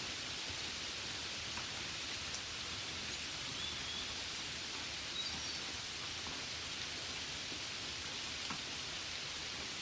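Steady gentle rain: an even hiss with a few faint drop ticks.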